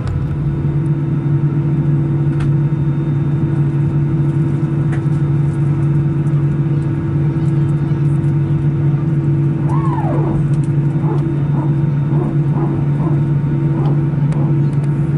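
Steady drone inside an Airbus A319 cabin, a constant low hum of the aircraft's air and engine systems. About ten seconds in there is a faint short gliding sound, then a few faint short higher sounds.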